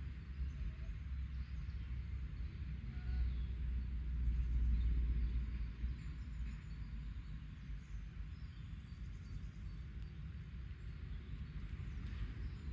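Outdoor garden ambience: a steady low rumble that swells for a few seconds around the middle, with faint, scattered bird chirps over it.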